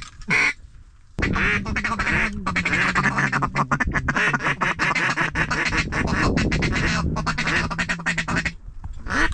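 Mallard duck call blown in a long, rapid feeding chatter to circling ducks, running for about seven seconds from about a second in.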